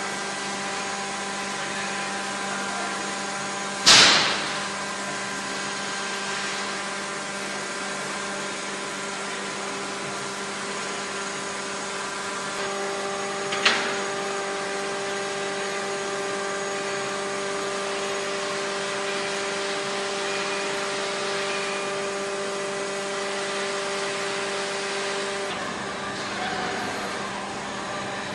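Steady machinery hum made of several fixed tones, with a loud sharp knock about four seconds in and a smaller one about halfway through. A higher steady tone joins about halfway through and stops near the end.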